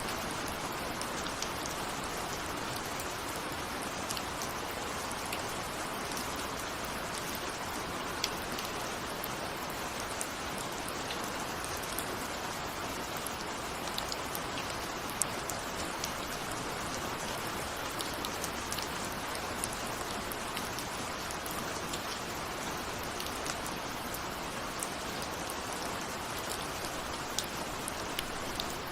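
Steady rain with individual drops ticking on a window pane, no thunder.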